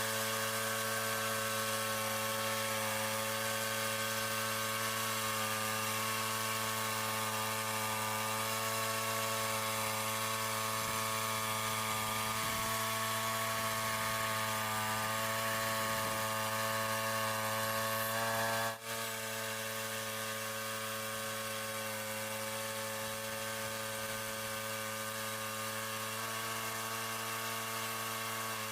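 Frontier OS27 portable bandsaw mill running at a steady speed during a cut, a constant engine-and-blade drone with one brief dip about two-thirds of the way through.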